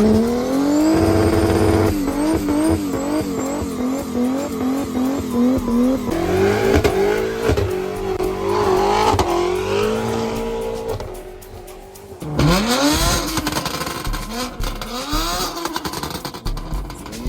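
High-performance car engines revving and accelerating hard, the pitch climbing and dropping again and again through gear changes. The sound dips briefly about eleven seconds in, then a loud launch follows with the pitch climbing fast.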